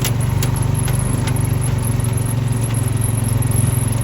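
A vehicle engine running steadily with a low, even hum, with a few short clicks or rattles in the first second or so.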